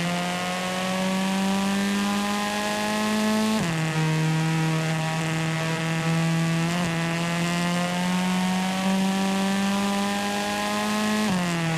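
Car engine in a driving video game accelerating, its pitch climbing slowly in a high gear, then dropping sharply at an upshift about three and a half seconds in and again near the end.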